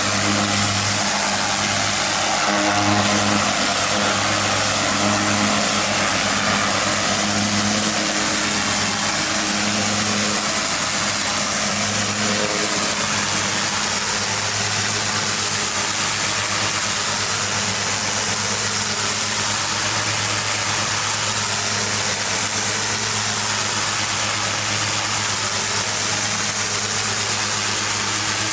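Gas-engine pressure washer running steadily under load, with the hiss of the water jet from a turbo nozzle blasting concrete.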